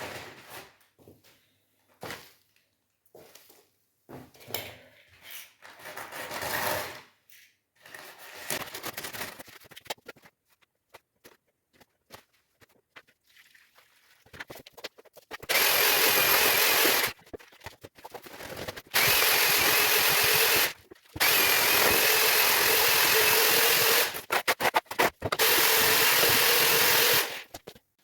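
Scattered knocks and scraping, then, about halfway through, a handheld electric power tool running loud and steady in four runs of a few seconds each, with short stops between them.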